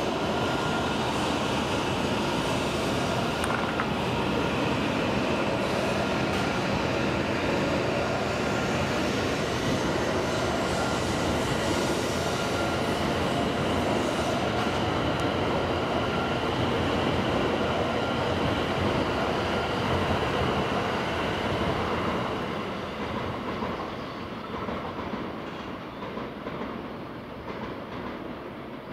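E7 series Shinkansen train pulling out of the station and rolling past close by: a steady rush of wheel and running noise with a thin high whine over it. It fades away about three-quarters of the way through.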